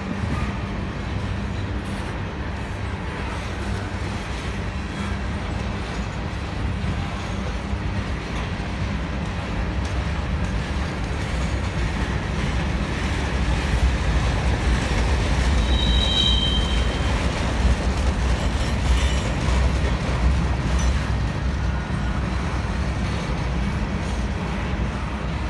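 Covered hopper cars of a freight grain train rolling past: a steady low rumble of steel wheels on the rails, louder for several seconds in the middle, with a brief high wheel squeal a little past halfway.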